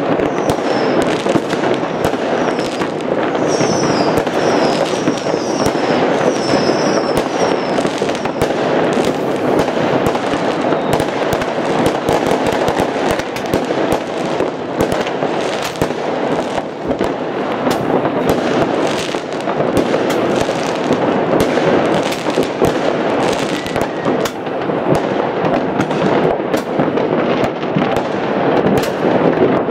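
Many fireworks and firecrackers going off at once, near and far: a constant din of bangs and crackling. A string of short high whistles runs through the first several seconds.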